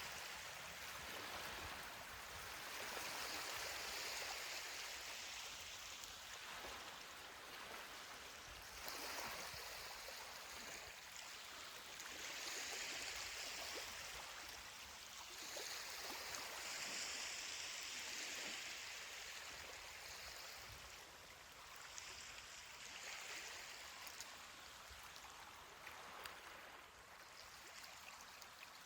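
Ocean waves washing onto a beach: a steady hiss of surf that swells and eases every few seconds.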